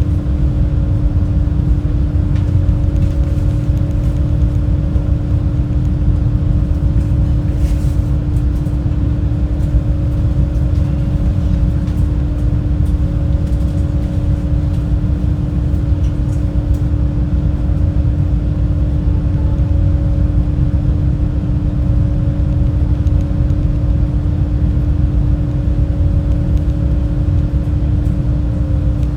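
Super Jet high-speed passenger boat running at cruising speed: a steady, loud engine drone with a deep rumble and a constant hum that does not change.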